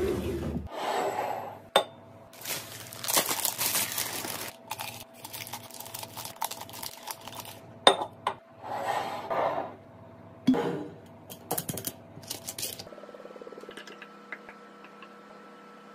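Kitchen restocking handling sounds: sharp clinks and taps of hard containers being handled and set down, with rustling and scraping between them, quieter for the last few seconds.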